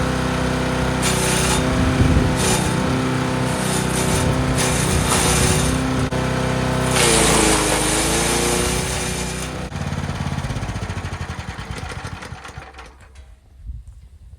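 Forest Master FM8DD wood chipper's petrol engine running, with several bursts of branches being chewed through; the engine dips in pitch under load during the longest burst. Over the last few seconds the engine shuts off and runs down.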